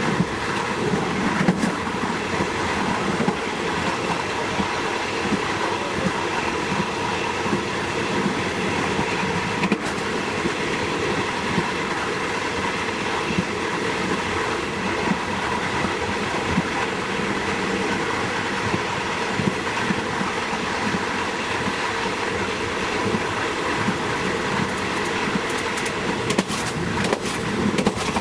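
Diesel passenger train of the State Railway of Thailand running along the line: a steady rumble of wheels on rail with a faint steady hum, and a few sharp clicks, more of them near the end.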